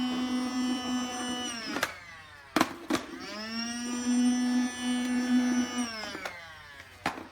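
Cordless stick vacuum running with a steady whine that winds down as it is switched off. After a few sharp clicks it spins back up, runs for a couple of seconds, then winds down again, with one more click near the end.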